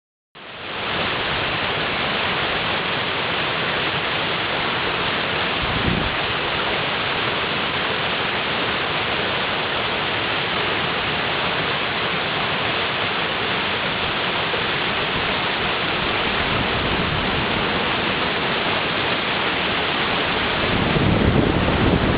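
Backyard stream swollen with snowmelt, rushing steadily. Near the end, gusts of wind buffet the microphone with uneven low rumbles.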